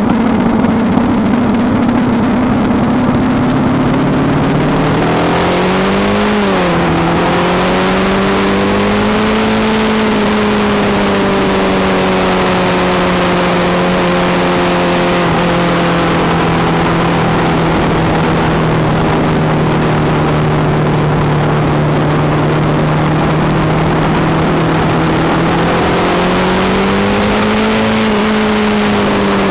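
Kawasaki ER-5's parallel-twin engine running under way, its note climbing about six seconds in and dipping sharply before settling to a steady pitch, then rising and easing again near the end. Wind rushes hard over the microphone throughout.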